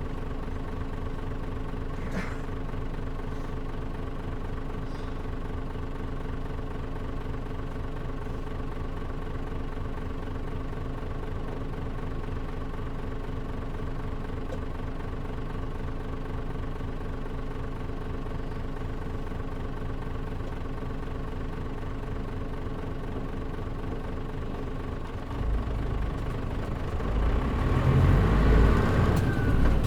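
Cabin sound of a Mitsubishi Fuso Aero Star (KL-MP37JM) bus's turbocharged diesel engine, with the air conditioning off. It hums at a steady, even pitch for most of the time, then about 25 seconds in it grows louder and deeper as the engine takes load.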